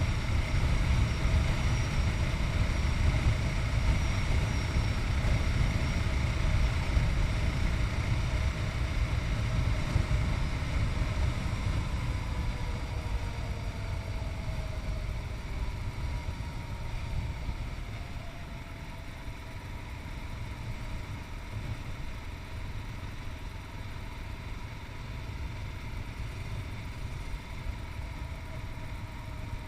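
Yamaha MT-03's 660cc single-cylinder engine running while riding, with a deep rumble; just past halfway the engine note slides down and the sound gets quieter.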